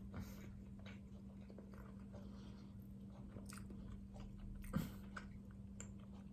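A person quietly chewing a mouthful of siopao, with small wet mouth clicks, over a steady low hum; a short knock sounds a little under five seconds in.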